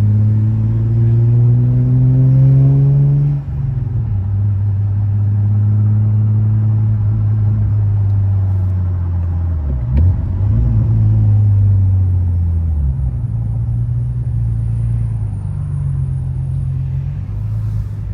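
Infiniti G37's V6 engine heard from inside the car while driving: it revs up for about three seconds, drops in pitch at a gear change, then runs steadily at cruise, with one short click about ten seconds in.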